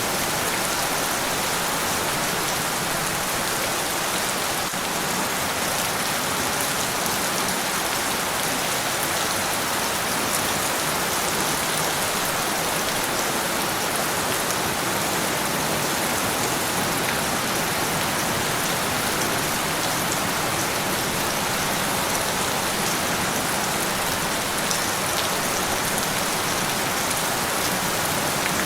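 Steady heavy rain falling in a dense, even hiss, with a few single drops ticking through it.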